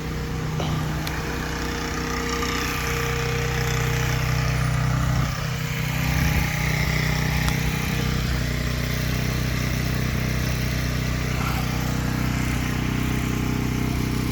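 An engine idling steadily close by, with an even low hum that dips briefly about five seconds in.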